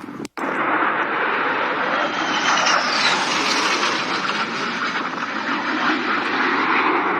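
F-35 Lightning II fighter's single F135 turbofan engine flying low past: a loud, steady jet roar that starts abruptly after a brief dropout near the start, with a faint falling whine about three seconds in.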